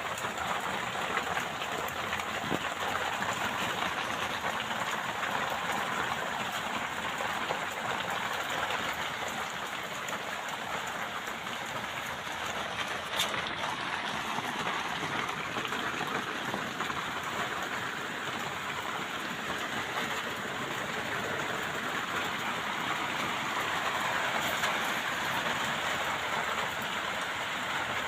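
Steady heavy rain falling, an even hiss of drops on surfaces. One sharp tick stands out about halfway through.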